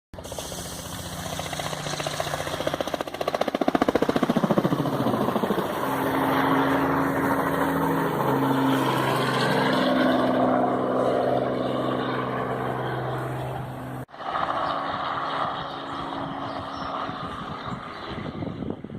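Crop-spraying helicopter flying low overhead, its engine and rotor running with a falling pitch as it passes. The sound cuts off abruptly about fourteen seconds in and picks up again weaker.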